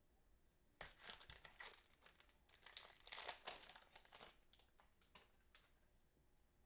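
Plastic cello wrapper of a trading-card pack being torn open and crinkled by hand: a burst of crackly rustling from about a second in that lasts some three and a half seconds, then a few faint ticks of handling.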